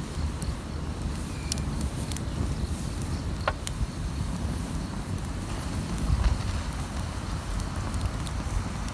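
Campfire burning, with a scattering of sharp crackles and pops from the wood over a low, steady rumble.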